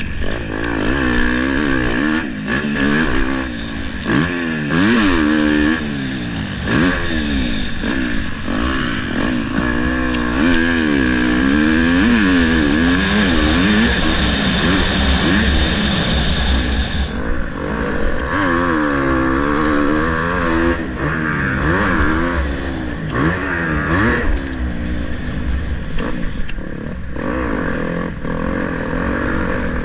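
Motocross dirt bike engine revving hard as it is ridden, its pitch climbing and dropping every second or two with throttle changes and gear shifts, over a low rumble and occasional clatter.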